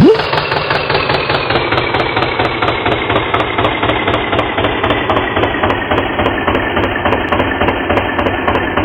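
Tractor engine chugging steadily with a rapid, even knocking beat, its pitch sinking slowly.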